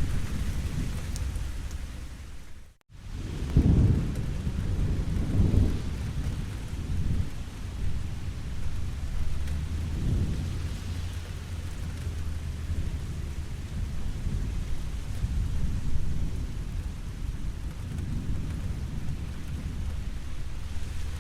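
Steady rain with rolling thunder, the low rumbles swelling and fading several times. About three seconds in the sound fades out for a moment and comes straight back, with a loud rumble just after.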